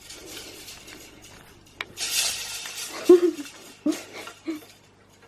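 Light clattering and rattling of a plastic toy being handled and knocked about, with a sharp click near the middle and a few short vocal sounds from a small child.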